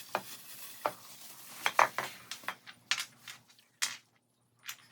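Hard parts clicking and clattering as they are handled, a string of separate sharp knocks with the loudest a little under two seconds in and a short quiet gap near the end.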